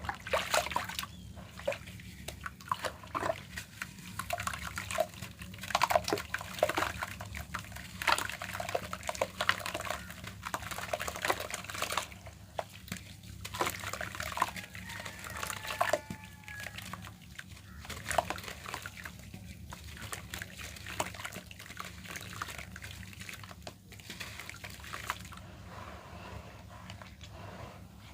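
Lumps of red dirt crumbled and crushed by hand: dense, irregular crackling and crunching, busier in the first half, over a steady low hum.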